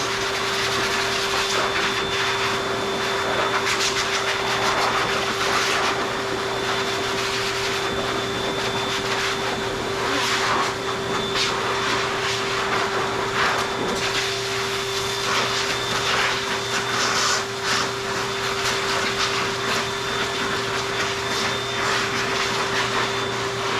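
AIIYME high-velocity dog grooming dryer (4.3 HP, 3200 W) blowing at full speed: a loud, steady rush of air over a constant motor hum, rising and dipping a little as the nozzle moves over the dog's coat.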